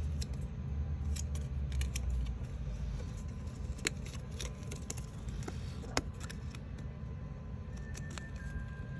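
Scattered light clicks and snips from handling small model pieces, two of them sharper about four and six seconds in, over a steady low rumble.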